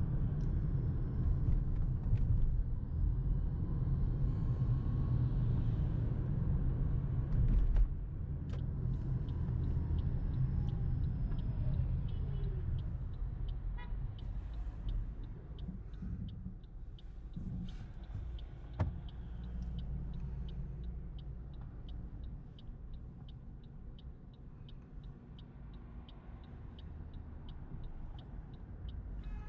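A car engine running with a low rumble that drops in level after about eight seconds. In the second half a faint regular ticking comes through, about two to three ticks a second.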